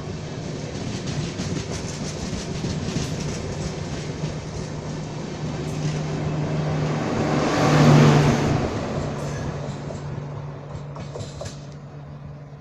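LHB passenger coaches rolling past, their wheels clattering over the rail joints over a steady low hum. The sound is loudest as the luggage-brake-generator car at the tail goes by about eight seconds in, then fades as the train pulls away.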